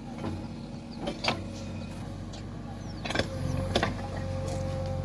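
Backhoe loader's diesel engine running, with several sharp metallic knocks. About three seconds in the engine comes under load and gets louder, and a steady hydraulic whine sets in and holds.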